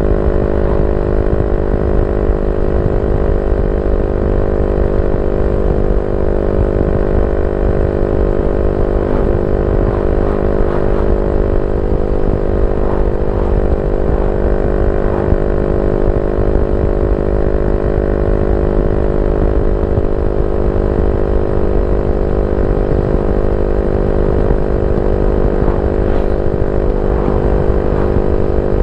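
Yamaha Y15ZR's 150 cc single-cylinder four-stroke engine idling steadily through an aftermarket YYPANG SD3 exhaust, an even, unchanging note.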